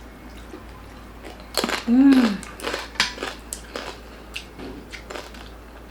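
Crunching bites and chewing of crispy roasted pork belly skin: a run of sharp crackles about one and a half seconds in, then scattered smaller crunches. A short hummed "mm" about two seconds in.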